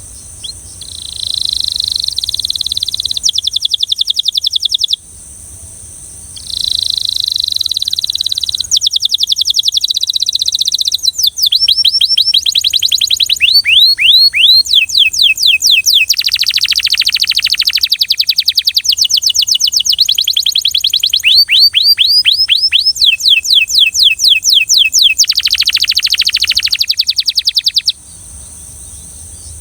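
Domestic canary singing in long phrases of rolling trills, rapid repeated notes and quick downward-sweeping notes, starting about a second in, breaking briefly near five seconds, and stopping near the end.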